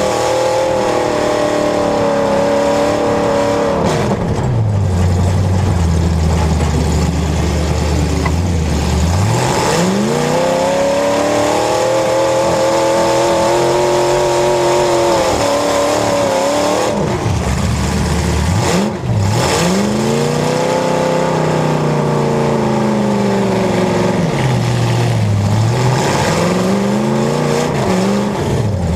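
Demolition derby cars' engines revving up and down over and over, loud, the pitch sweeping high then sinking low as the drivers floor it and back off between hits.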